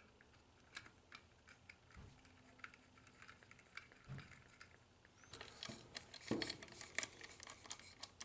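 Scattered light clicks and taps of small vending-machine gearbox parts being handled, sparse at first and busier from about five seconds in.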